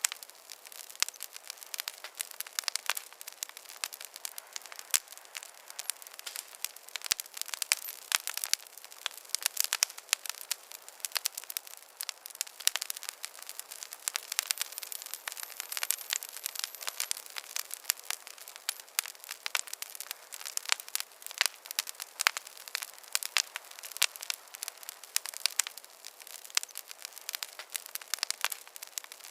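Wood campfire crackling: a constant, irregular run of sharp pops and snaps over a soft hiss.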